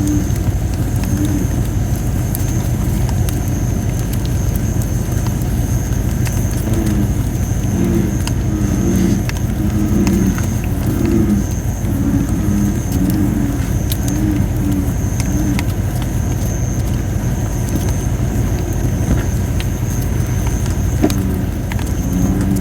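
Campfire of thin, under-dried red robin (Photinia) wood, crackling with scattered sharp pops and a steady high-pitched hiss of steam escaping the damp wood. American bullfrogs call in the background, low croaks repeated in runs, most in the middle of the stretch, over a steady low rumble.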